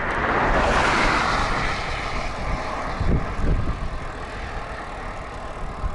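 A motor vehicle passing by on the highway: tyre and engine noise swells over the first second, then fades away with a falling pitch. Underneath is a low, gusty rumble of wind on the microphone.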